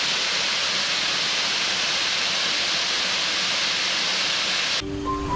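Waterfall rushing steadily. It cuts off suddenly near the end, and soft background music begins.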